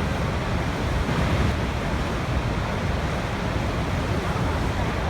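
Waterfall: water falling and rushing in a steady, even roar of white noise, heaviest in the low end.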